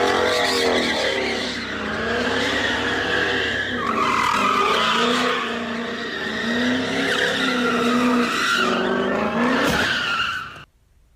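Car tyres squealing in one long wavering screech that stops abruptly about ten and a half seconds in.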